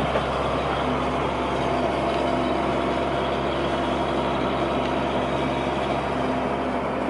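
Hino truck's diesel engine running steadily at cruising speed, with road and cab noise, heard from inside the cab.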